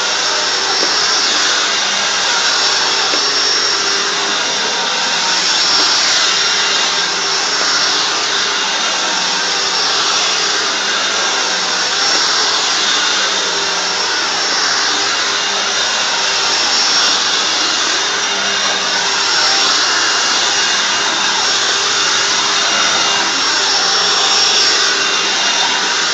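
Hoover WindTunnel Anniversary Edition self-propelled bagged upright vacuum running on the carpet setting, its brush roll engaged as it cleans an area rug. A loud, steady whir with a few held tones, swelling and easing a little every few seconds.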